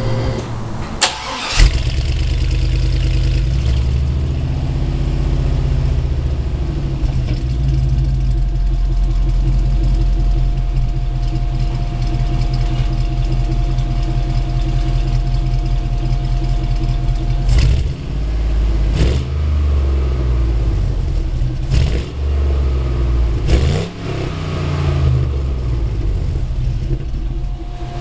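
A 5.3-litre LS V8 swapped into a 1952 Chevy Styleline Deluxe starts about a second in, then runs through a new exhaust with 2 1/4" tubing, generic mufflers and pencil tips. It settles from a fast idle to a steady idle, and its throttle is blipped a few times in the second half.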